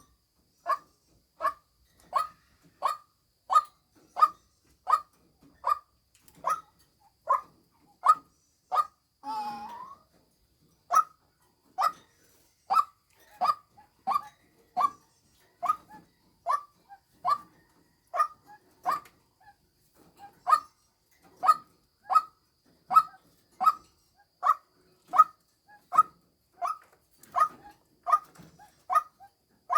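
White-breasted waterhen giving its monotonous lure call: a short, sharp note repeated evenly about every 0.7 seconds, with one longer, rougher call about nine seconds in.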